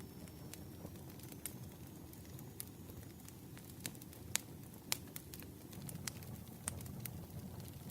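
Campfire burning: a low steady rumble of flames with scattered sharp crackles and pops, a few louder pops just after the middle.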